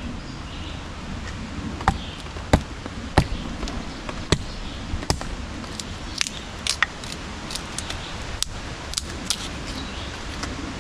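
A knife splitting thin splinters off a piece of wood: a dozen or so sharp cracks and clicks at irregular intervals, over a steady background hiss.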